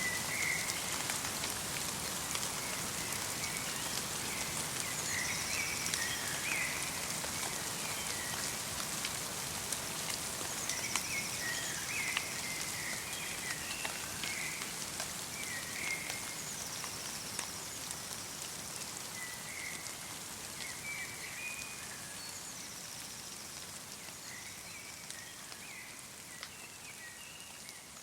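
Light rain pattering through a forest, with small birds chirping repeatedly and a short high song phrase recurring every few seconds. The whole scene slowly fades down over the latter half.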